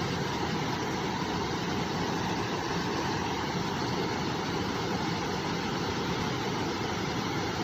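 A river's water flowing, a steady, even rushing that does not change.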